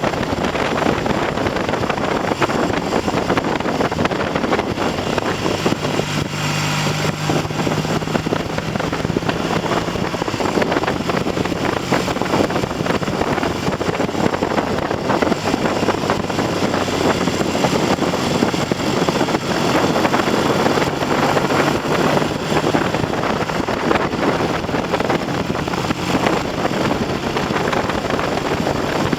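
Heavy wind buffeting on the microphone of a moving motorcycle, over the fainter steady note of a Triumph TR6's 650 cc parallel-twin engine running at moderate revs and light load while being run in on a freshly rebuilt top end; the engine note rises around six seconds in, then drops back.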